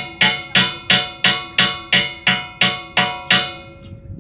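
Hammer blows on metal in a steady rhythm, about three a second, each strike ringing. The blows stop about three and a half seconds in.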